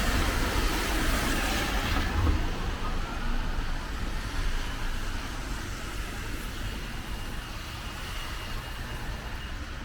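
A car passing on a rain-soaked road, its tyres hissing through the surface water; the spray hiss is strongest for the first two seconds, then drops away, leaving a low traffic rumble that slowly fades.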